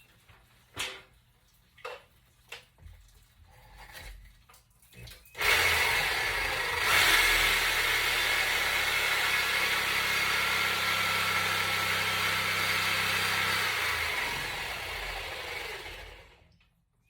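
A few knocks, then a power cutting tool starts suddenly and runs steadily for about ten seconds, cutting into a cast iron drain pipe, before winding down near the end.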